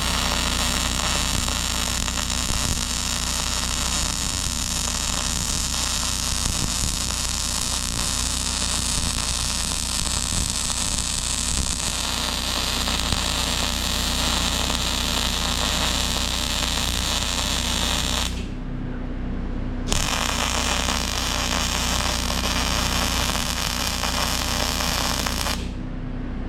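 Electric arc welding on steel: a steady crackling hiss over a constant electrical hum. The arc breaks off for about a second and a half near the two-thirds point, then runs again until it stops shortly before the end.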